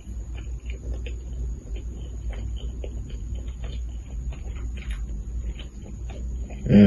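Eating sounds: soft chewing with many small, quick clicks and ticks over a steady low hum, and a short voice sound near the end.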